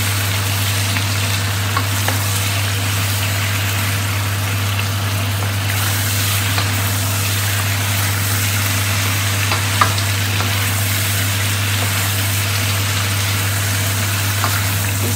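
Chicken pieces with tomato, onion and red bell pepper sizzling in a stainless steel wok as they are stir-fried with wooden spatulas, with a few light clicks of the spatulas against the pan. A steady low hum runs underneath.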